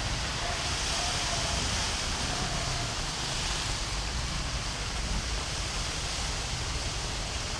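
Steady rushing of heavy rain and floodwater running down a street, an even noisy wash with a low rumble underneath.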